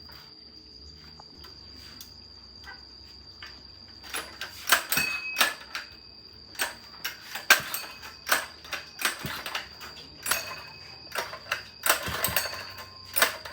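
Irregular metal clicks, taps and knocks of tools and parts being handled on a small petrol water pump, starting about four seconds in and coming in quick clusters.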